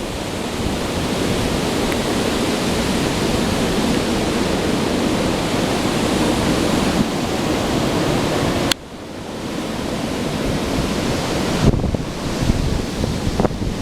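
Strong storm wind from Hurricane Sandy blowing and buffeting the microphone as a loud, steady rush of noise. It cuts out suddenly about nine seconds in, then builds back in uneven gusts.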